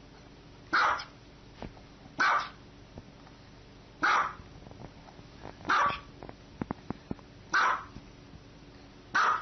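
A dog barking, six single loud barks spaced about one and a half to two seconds apart.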